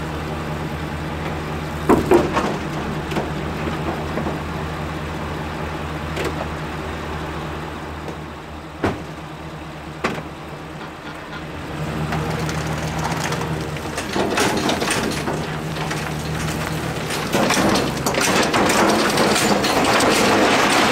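A vehicle engine idling steadily, with a few sharp metal clanks of a trailer being hitched. From about twelve seconds in the engine works harder and gets louder as it pulls the horse trailer.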